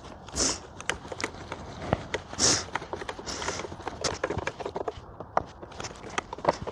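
Irregular clicks, taps and a few short scrapes of the plastic housing and cover plate of a Bissell Powerforce Helix upright vacuum being handled and refitted.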